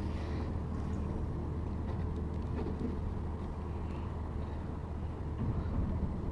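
Steady low background rumble and hum, with no distinct events.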